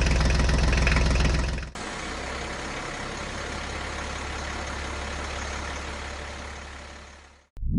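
Heavy vehicle engine idling steadily with a deep low drone. It drops to a quieter level a little under two seconds in, then fades out near the end.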